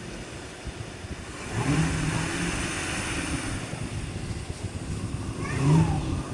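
Dodge Charger R/T's Hemi V8 revving about one and a half seconds in as the all-wheel-drive car pushes through deep snow, with a second short, louder burst near the end.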